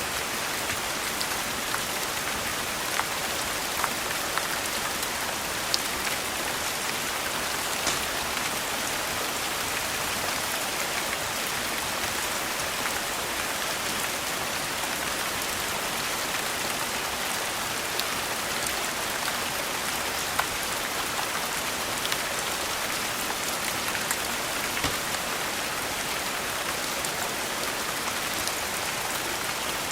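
Steady rain falling, an even hiss with a few sharp clicks now and then.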